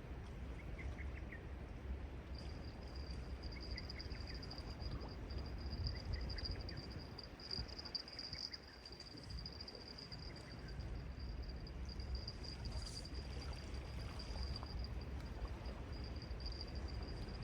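Seashore ambience: a low rumble of sea waves and wind, with a steady high-pitched trill joining about two seconds in and a few faint short chirps in the first several seconds.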